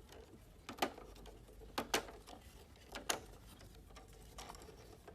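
A handful of faint, sharp clicks and light knocks of hard plastic air-conditioner parts being handled, roughly one a second.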